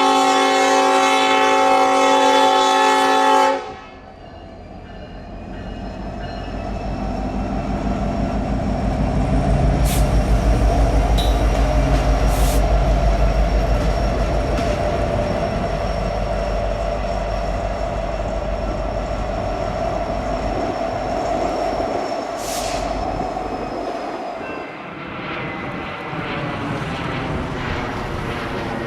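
Diesel locomotive's multi-chime air horn sounding a chord that cuts off about three and a half seconds in. The train's low, pulsing diesel engine rumble then builds, loudest in the middle, with scattered clicks and squeals from the wheels on the rails, and eases off near the end.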